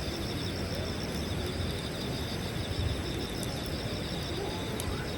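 Evening outdoor ambience: insects chirring steadily in a fast, even pulse over a low rumble, with a few faint crackles from a wood campfire.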